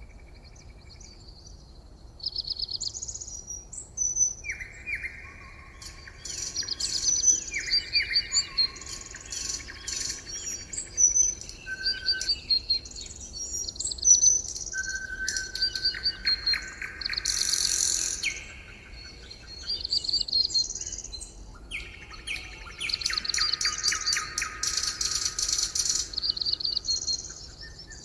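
Several songbirds singing and calling at once: many high chirps and short whistles overlapping with repeated trills, each lasting a second or two, starting a couple of seconds in.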